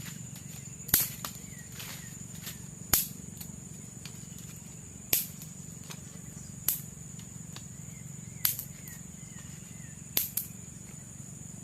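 Steady high-pitched insect drone of tropical forest, broken by sharp knocks or clicks every one to two seconds, a few of them in quick pairs.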